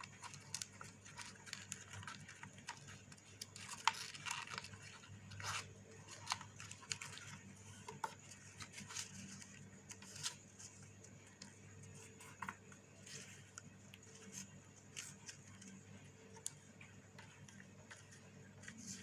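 Chart paper being folded and creased by hand: faint, scattered rustles and crinkles.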